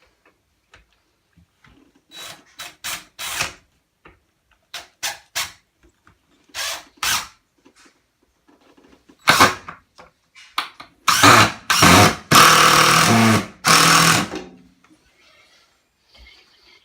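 Drill run in short trigger bursts, then in longer, louder runs about nine to fourteen seconds in, as screws go into the top corners of a new construction window's frame.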